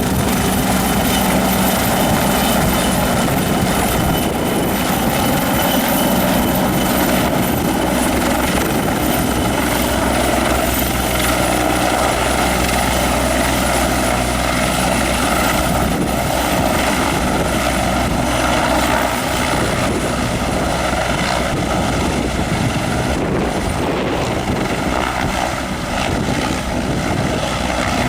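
News helicopter's turbine engines and rotor running loud and steady close by, with a constant high whine over the rotor noise.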